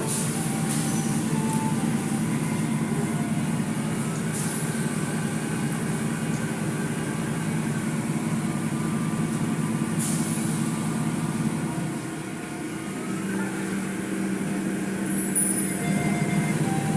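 Automatic car wash machinery running: a steady rumble with a high hiss.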